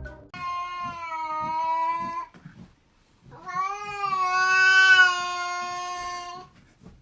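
A cat gives two long, drawn-out yowls, the second longer and louder than the first.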